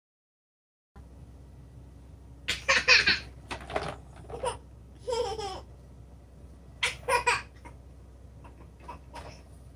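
A person laughing in several bursts of rapid pulses over a low steady hum, starting about a second in after a moment of complete silence.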